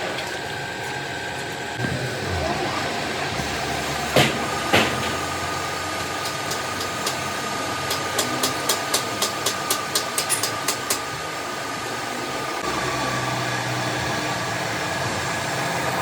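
A workshop machine running steadily, with two loud sharp knocks about four seconds in, then a quick run of about a dozen light taps, roughly four a second, around the middle.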